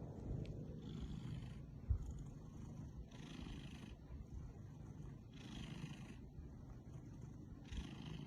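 Domestic cat purring quietly, swelling and easing with each breath about every two seconds, with one short soft knock about two seconds in.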